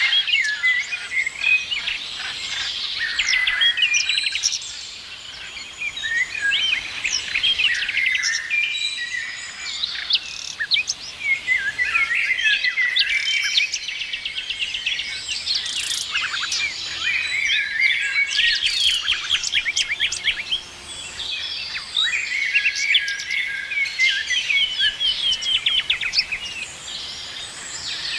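A chorus of several songbirds singing and chirping together, with overlapping trills, rapid chirp series and whistled notes. The chorus runs on without a break.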